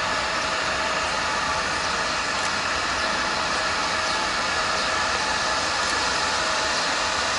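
Jet airliner's engines running, a steady rushing noise with a faint held tone under it.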